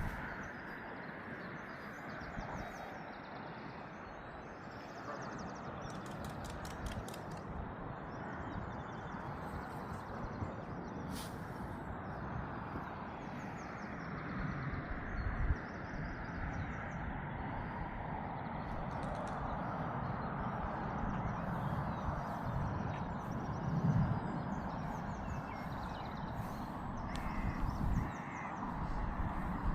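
Outdoor ambience: a steady rush of wind or distant traffic, with low thumps and birds chirping and calling.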